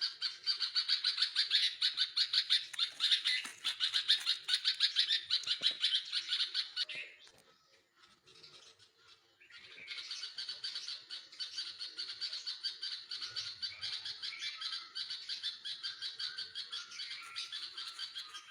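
Nestling birds in the nest calling to be fed: a fast, continuous run of high chirps. It breaks off about seven seconds in and starts again, a little softer, a couple of seconds later.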